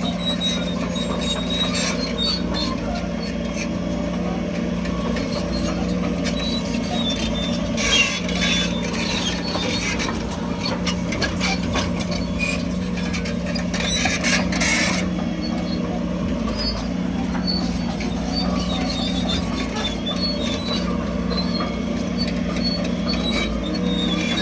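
Bulldozer working: its diesel engine runs with a steady drone while the steel tracks squeal and clank irregularly, with busier bursts of squeaking about a third of the way in and again past the middle.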